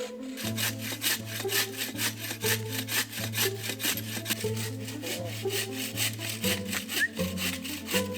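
Wood being sawn with a hand saw in quick, even rasping strokes, about four a second, over background music with a steady bass line.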